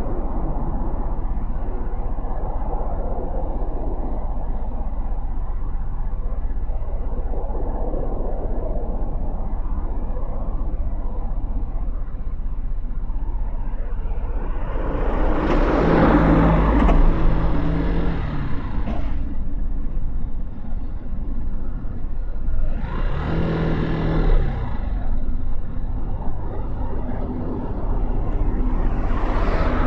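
Motorcycle ride through city traffic: a steady engine and road rumble with wind noise, broken by two louder swells of engine noise, about halfway through and again a few seconds later, and a brief one near the end.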